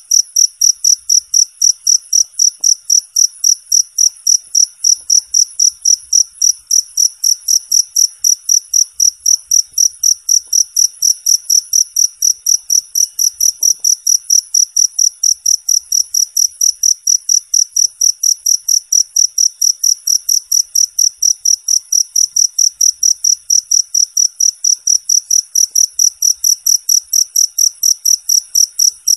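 Cricket chirping in a steady, even rhythm of about three clear, high-pitched chirps a second.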